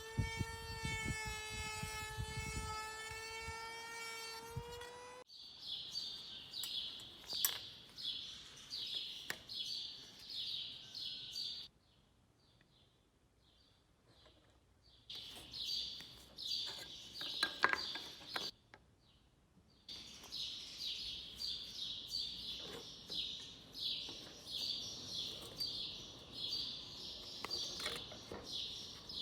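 A steady, high machine whine stops abruptly about five seconds in. Then small birds chirp over and over, two or three chirps a second, with two short breaks.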